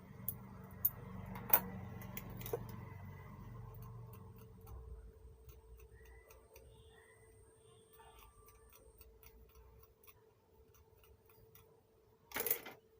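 A few sharp clicks in the first few seconds and a short knock near the end, over a faint steady hum.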